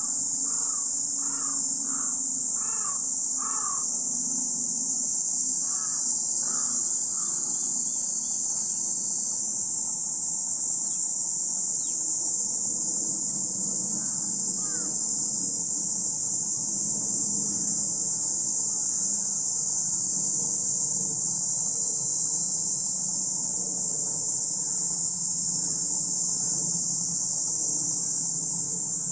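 Steady, loud, high-pitched drone of singing insects, unbroken throughout. A bird calls with a quick series of short repeated notes in the first few seconds and again briefly around six seconds in.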